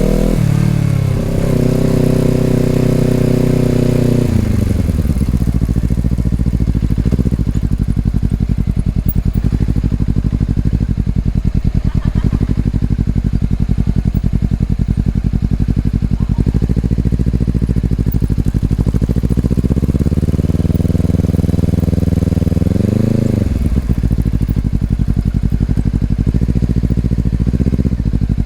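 Honda CBR250RR parallel-twin engine through an Over Racing aftermarket exhaust, on the move: revs held high, then dropping off about four seconds in to a low, steady exhaust note. A quick rise and fall in revs comes a little past twenty seconds in.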